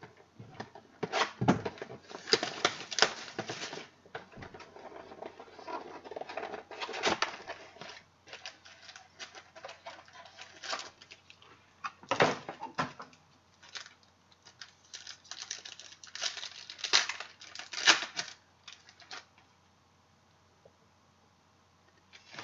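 Trading cards and their packaging being handled: an irregular run of crisp clicks, snaps and rustles in bursts, dying down a few seconds before the end.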